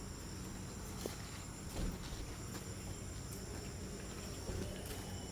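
Insects chirring steadily in high, even tones, over a low hum, with a few faint clicks and knocks.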